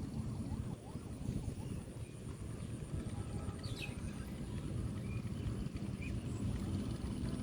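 Outdoor rumbling noise, with a steady thin high tone and a bird chirping briefly about halfway through.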